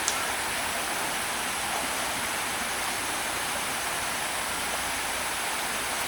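Steady rushing of flowing stream water, with a single short click right at the start.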